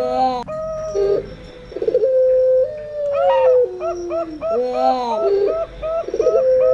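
Zebra doves (perkutut) and puter doves cooing together in overlapping phrases: rows of short stepped notes over long coos that slide downward in pitch.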